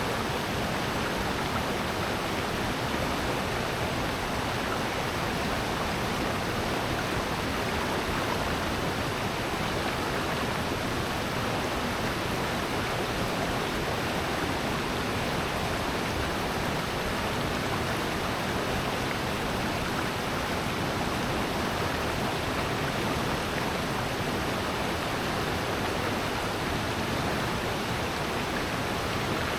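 Mountain stream and waterfall in a rocky valley: water rushing and splashing in a steady, unbroken wash.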